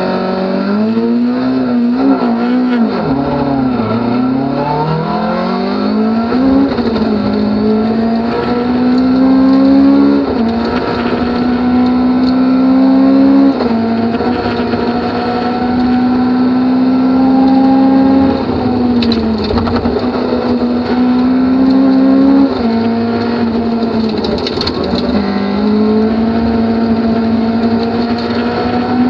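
Toyota Corolla rally car's engine heard from inside the cockpit, driven hard on a stage. The revs wobble up and down for the first few seconds, then climb and drop sharply at each gear change, about five times.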